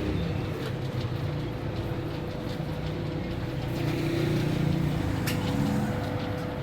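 A motor vehicle running, with steady engine and road rumble and a constant hum; a single sharp click comes about five seconds in.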